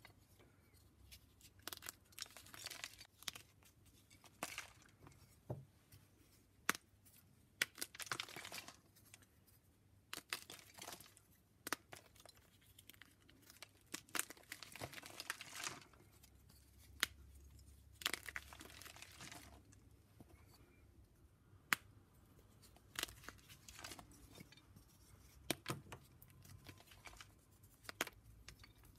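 Gym chalk being shaved and crumbled: irregular bursts of dry scraping and crunching with a few sharp snaps between them.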